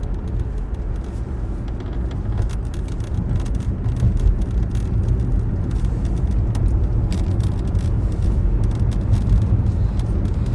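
Steady low road rumble of a car heard from inside the cabin while driving, with scattered light clicks and taps.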